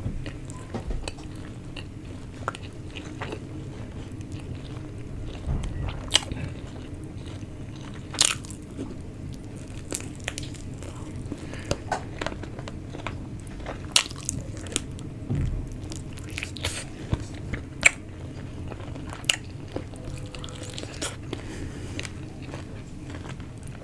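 Close-miked chewing and biting of tandoori chicken: wet mouth sounds broken by irregular sharp crunches and clicks, a few every couple of seconds, over a faint steady low hum.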